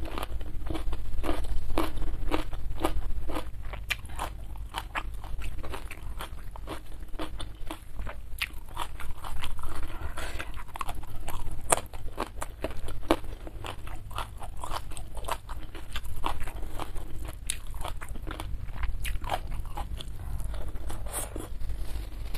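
Close-miked chewing with many irregular crisp crunches, as mouthfuls of raw vegetables and young jengkol are bitten and chewed.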